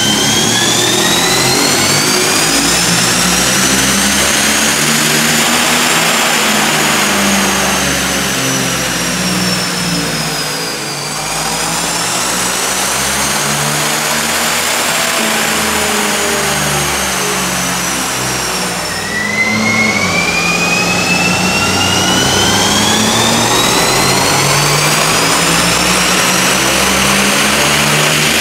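Toyota Caldina GT-Four's turbocharged 3S-GTE four-cylinder run under load on a chassis dyno, with no one speaking over it. The revs climb for about six seconds, fall back, and climb again. After a short dip about two-thirds of the way in, they rise hard in one long pull, with a high whine rising and falling with them.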